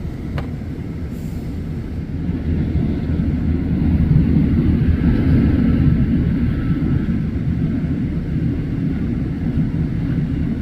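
Work truck engine running steadily with a low rumble, a little louder around the middle.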